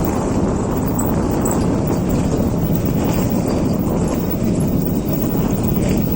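Motorcycle engine running steadily with a fast, even putter while riding a rough dirt track.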